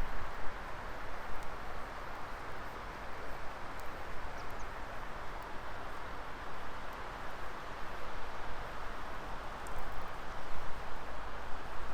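Wood fire burning in a Coleman Fire Disk fire pit: a steady rushing of flames with a few small, sharp crackles.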